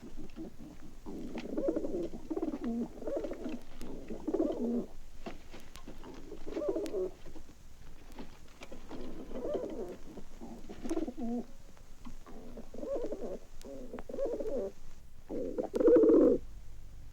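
Pigeons cooing: a steady run of low, repeated coo phrases with short gaps between them, from a 1960s sound-effects LP recording.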